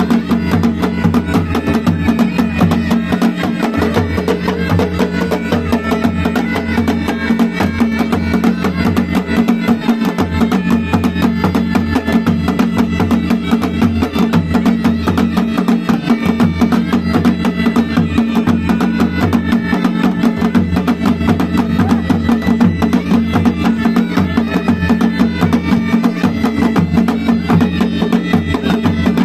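Pahadi band music: mashak been bagpipes play a melody over a steady drone, with fast, continuous dhol and nagada drumming.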